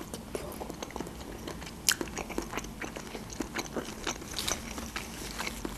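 Close-miked chewing of lobster meat: many small mouth clicks and smacks, with one sharper click about two seconds in.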